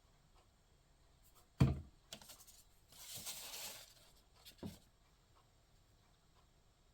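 Paper craft pieces being handled on a tabletop: a thump about a second and a half in, a few light clicks, about a second of paper rustling just after the three-second mark, and a soft tap near the five-second mark.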